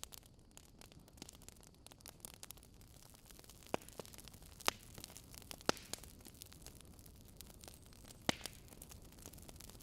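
Fire crackling: a soft steady hiss with many small scattered pops, and four louder sharp pops from about four seconds in.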